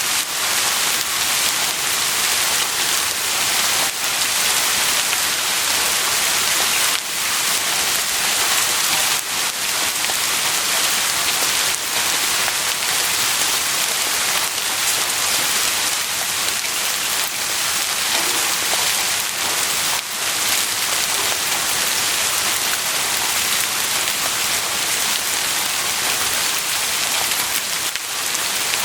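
Heavy rain falling steadily, a dense, even hiss of drops striking surfaces.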